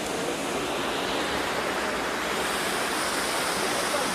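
Waterfall rushing: a steady, even noise of falling water with no let-up.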